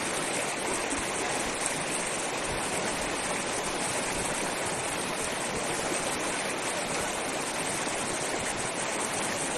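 Rushing river water, a steady unbroken hiss.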